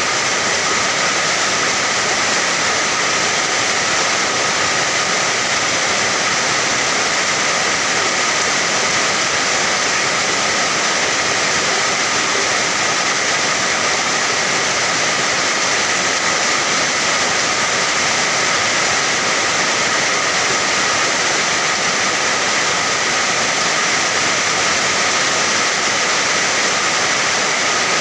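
Steady heavy rain: a dense, even hiss of falling water that never changes.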